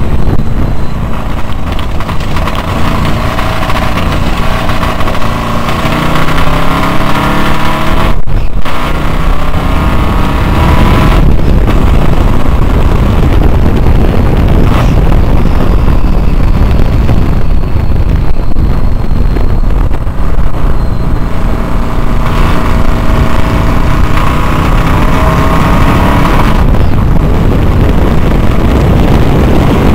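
Studebaker 289 cubic-inch V8 with a McCulloch supercharger running hard at racing speed, heard from the open cockpit. Its note climbs in pitch under acceleration and cuts out sharply for a moment a few times.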